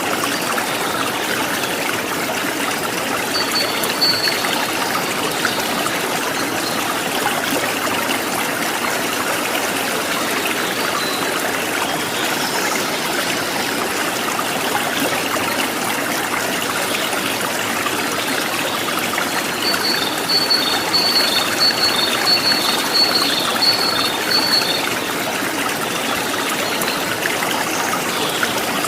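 Steady running water of a stream, trickling and splashing. A bird chirps briefly a few seconds in, then gives a quick run of repeated high chirps for about five seconds in the second half.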